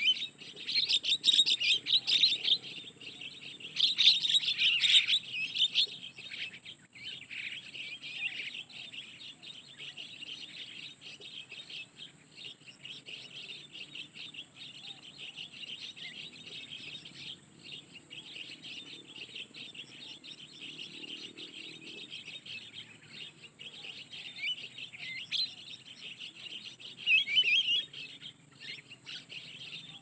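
Flock of small birds chirping and twittering continuously in rapid high notes, with louder bursts about a second in, around four seconds in and again near the end.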